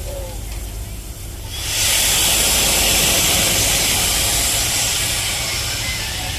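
Steam locomotive letting off steam: a loud hiss that starts suddenly a couple of seconds in and slowly dies away, over a steady low rumble.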